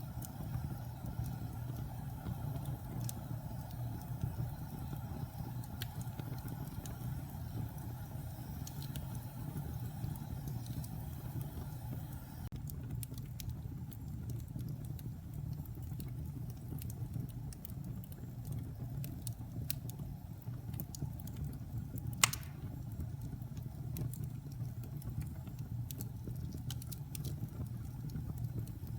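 Log fire burning in a fireplace: a steady low rumble of flame with scattered small crackles, and one loud sharp pop about two-thirds of the way through.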